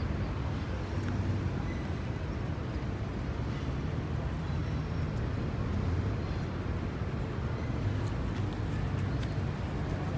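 Steady low rumble of background noise with no distinct event, like distant road traffic.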